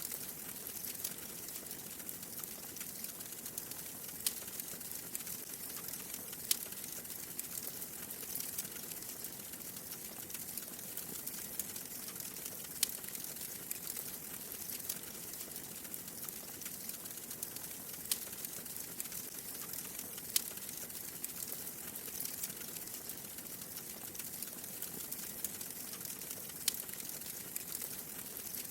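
Wood fire crackling in a fireplace: a steady soft hiss with frequent small crackles and a few sharper pops at irregular moments.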